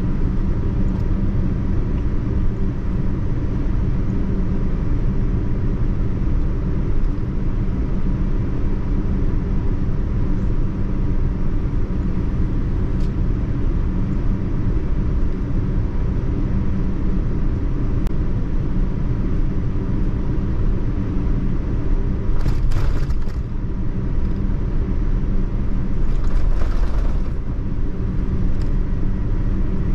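Steady low rumble of a Boeing 787-9 airliner's cabin noise, the engines and airflow heard from inside the cabin. Twice in the last third, a short hissing noise rises over it.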